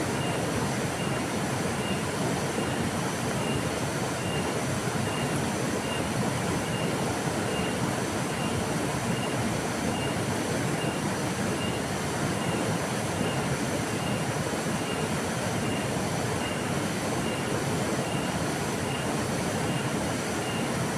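River water flowing, a steady rushing noise with no breaks. A faint high-pitched note pulses through it a little more than once a second.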